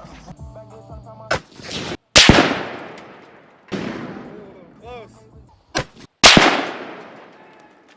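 Two loud gunshots about four seconds apart, each with a long echo fading away, and a few fainter sharp cracks between them.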